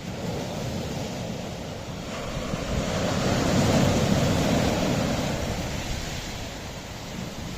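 Sea waves washing on a rocky shore: one wave swells to its loudest about halfway through and then fades.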